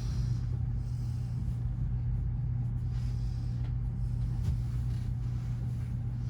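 Steady low drone of a passenger train standing in the station with its engines idling.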